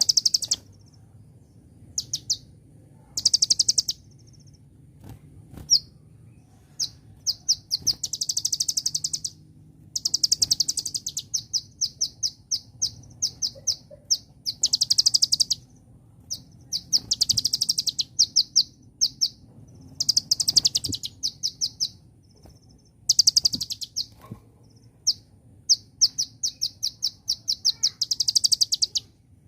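Kolibri ninja sunbird singing: bursts of very fast, high trills, each a second or so long, broken by single sharp chirps and short pauses, repeated over and over.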